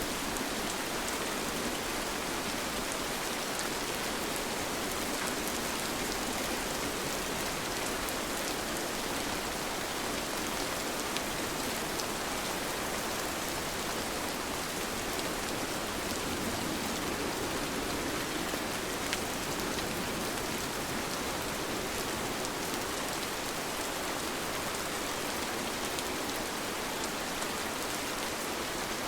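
Steady rain falling, a constant even hiss with scattered individual drops ticking.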